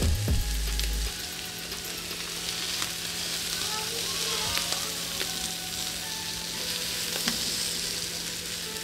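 Food sizzling steadily on hot stovetop cookware: salmon steaks on a griddle and a pan of pineapple-mango sauce cooking down, with light clicks of tongs. A low thudding rumble, the loudest sound, fills the first second.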